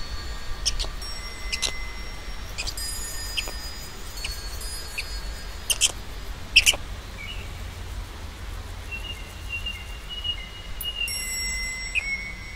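Birds calling: short, sharp high chirps scattered through, with a wavering whistled note near the end. Several steady ringing chime-like tones are held for a second or two at a time, over a low rumble.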